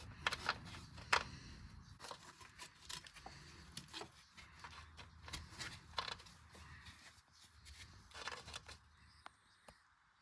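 Faint, irregular clicks, taps and scrapes of hand tools on metal fittings as the grounding strap is undone during engine removal, with a short scraping rustle about eight seconds in.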